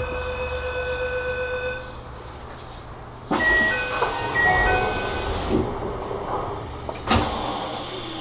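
Commuter train door chime sounding as the doors close at a station stop, a steady pulsing tone for about two seconds. Then a loud hiss of air with more short chime tones, and a sharp thud about seven seconds in as the doors shut.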